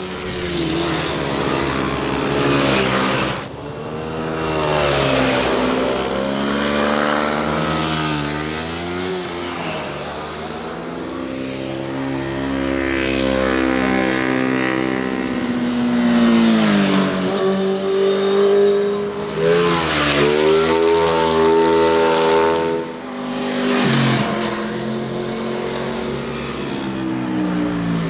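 Several motorcycles passing one after another, their engines revving hard and the pitch rising and then falling away as each goes by.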